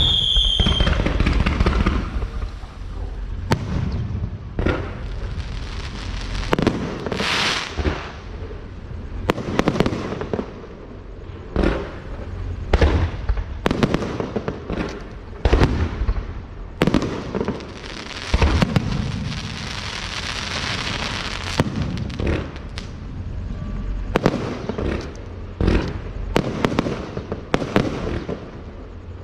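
Fireworks going off: sharp bangs one after another, roughly a second apart, with a few seconds of dense crackling hiss about two-thirds of the way through.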